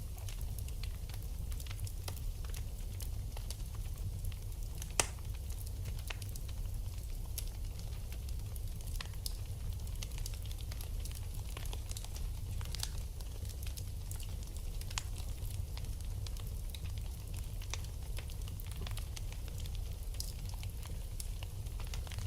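Wood fire burning in a fireplace: scattered crackles and small pops over a steady low rumble, with one sharper pop about five seconds in.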